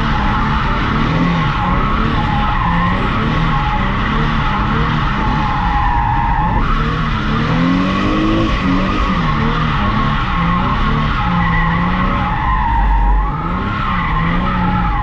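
Drift car sliding: the engine revs up and down while the tires squeal steadily. About six and a half seconds in, the sound changes abruptly, as at a cut between runs.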